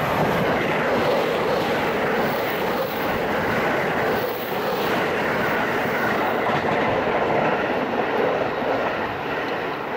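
JR West 681 series electric express train running past close by, a steady rush of wheel and running-gear noise from the passing cars.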